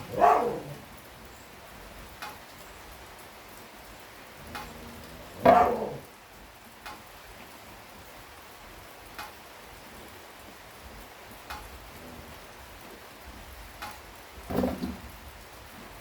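Steady rain falling, with faint dripping ticks. Three brief, louder sounds stand out: just after the start, about five and a half seconds in, and near the end.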